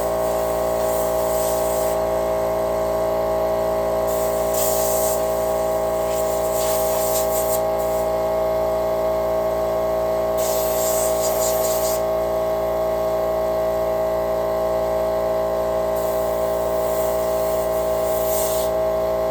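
Air compressor running with a steady hum, while a compressed-air blow nozzle gives several short bursts of hissing spray.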